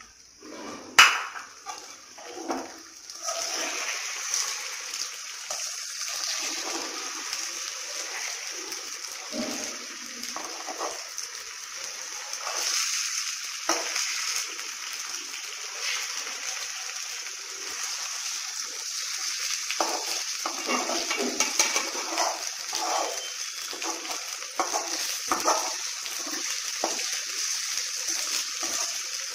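Eggs sizzling in hot oil in a steel kadai while a steel slotted spatula scrapes and stirs them into fried onions and green chillies. A sharp knock against the pan comes about a second in, and the steady sizzle sets in a couple of seconds later, with irregular scrapes of the spatula over it.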